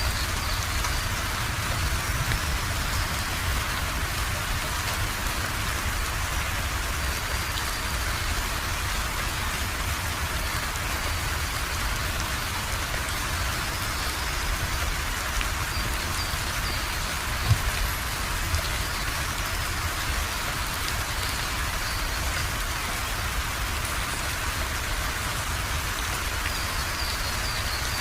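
Steady rain falling, an even patter with a low rumble underneath. There are two brief dull thuds about two-thirds of the way through.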